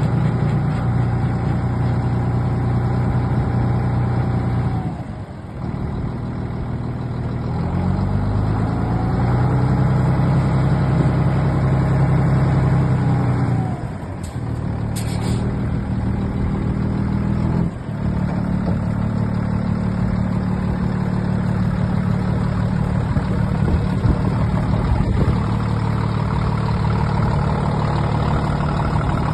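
Scania P92 concrete mixer truck's diesel engine running, its speed changing several times: steady, then dropping briefly about five seconds in and climbing again, with another dip and rise around fourteen seconds.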